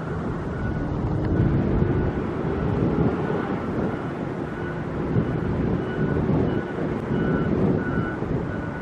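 Wind on the microphone over the steady running of a vehicle engine, its pitch rising slightly about a second in, with faint short high beeps coming and going.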